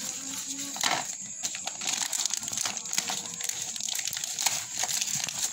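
Toy packaging being opened: crinkling and crackling with many small irregular clicks and rustles.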